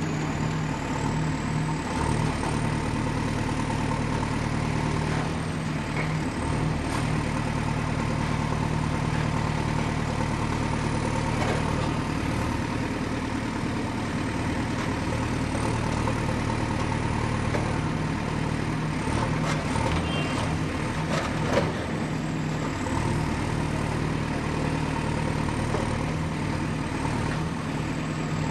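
Excavator's diesel engine running steadily, with a few short metallic knocks about two-thirds of the way through, one of them louder than the rest.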